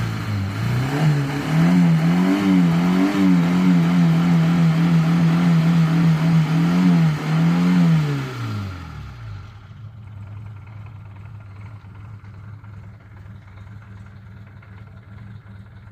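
ZAZ Tavria's four-cylinder petrol engine revved up and held at high revs for several seconds, then dropping back to a steady idle about nine seconds in. The car is smoking, which the owner puts down to worn oil scraper rings.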